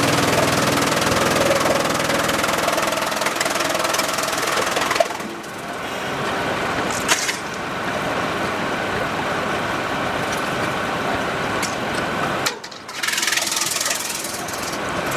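Sawmill machinery running with a loud, dense mechanical noise, with a couple of sharp knocks partway through and a brief drop in the sound near the end.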